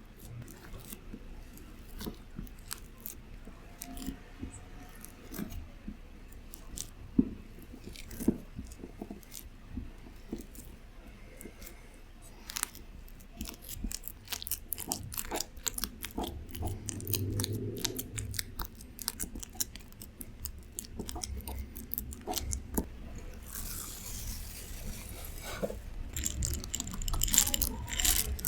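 Food being worked in a bowl with a utensil: a run of quick, crunchy clicks and soft squishes that gets busier about halfway through. There is a short hiss a few seconds before the end.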